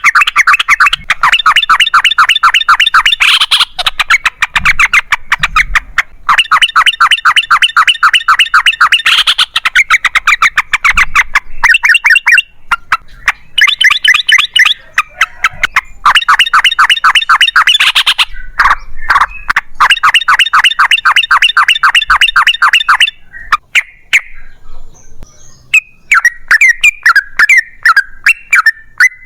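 Yellow-vented bulbul (trucukan) singing its long rapid-fire song: runs of quick chattering notes, several seconds each with short breaks between them. Near the end the song turns into looser, varied chirps.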